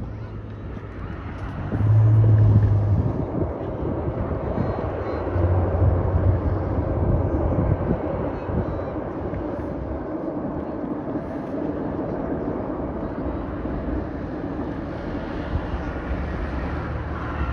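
Strong wind buffeting the microphone: a steady low rumble that swells into heavier gusts about two seconds in and again around six seconds.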